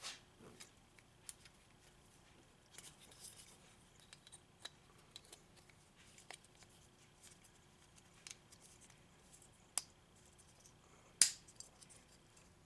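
Scattered small clicks and taps of handling a small plastic remote case and its wires, with a sharp snip-like click near the end.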